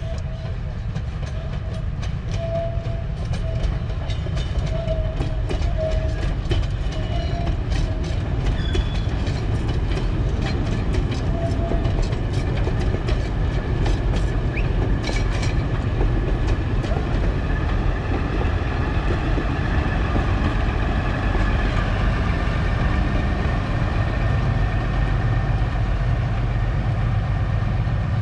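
A narrow-gauge diesel locomotive hauling wooden carriages rolls past with a steady low engine rumble. Through the first half its wheels click over rail joints and points, and a thin high whine comes in later.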